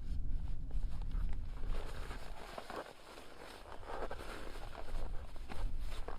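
Footsteps crunching in snow at a walking pace, with a low rumble in the first second or so.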